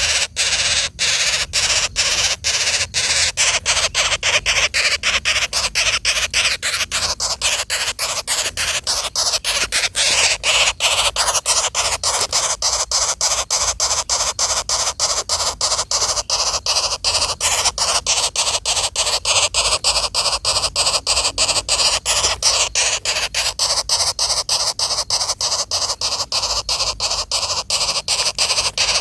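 Woodpecker nestlings giving a continuous harsh, rasping begging chorus, rapidly pulsed about three times a second.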